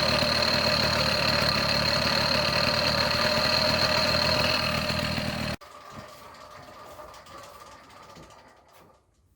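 Small 50 cc two-stroke engine running steadily at one speed. It cuts off abruptly about five and a half seconds in, followed by a much fainter running sound that fades away near the end.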